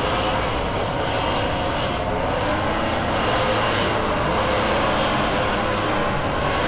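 Aircraft engine noise, a steady loud drone with a few held engine tones over it.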